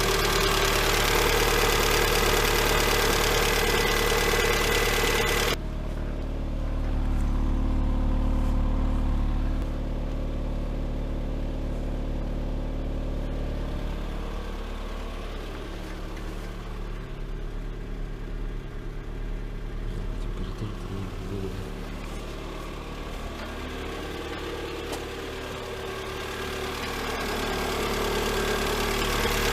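Freshly overhauled Lada Granta 1.6 16-valve VAZ-21126 engine idling steadily. About five seconds in, the sound changes abruptly and a loud hiss drops away, leaving the lower engine note.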